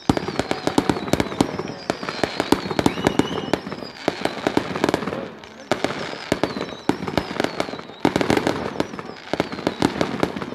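Aerial fireworks display: rapid bangs and crackling bursts, with several falling whistles overhead.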